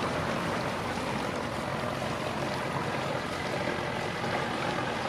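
Steady sound of motor cruisers' engines running on the river, mixed with water noise, at an even level with no single event standing out.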